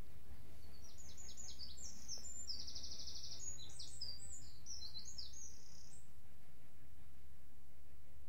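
A songbird singing one varied phrase of quick high notes with a fast trill in the middle, lasting about five seconds, over a steady low background rumble.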